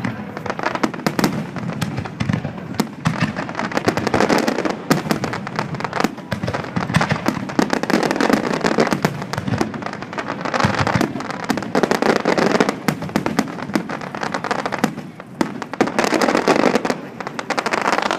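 Fireworks finale: a dense, unbroken barrage of shell bursts and crackling, swelling and easing in waves.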